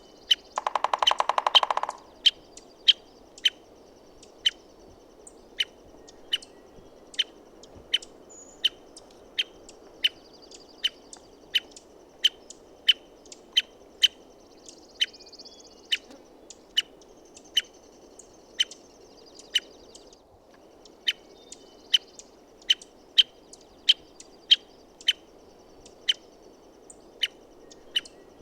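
American three-toed woodpecker giving a short, rapid drum roll about a second long near the start, then a long series of sharp, short call notes, roughly one to two a second, with a brief pause about two-thirds of the way through.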